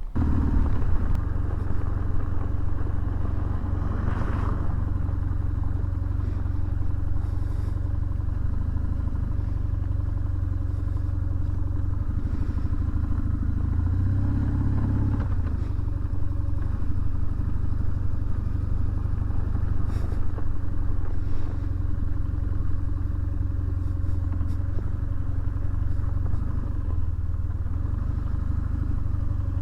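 BMW R1150GSA motorcycle's boxer twin running steadily under way, over wind and road noise. It comes in suddenly at the start and gets a little louder for a moment about halfway through.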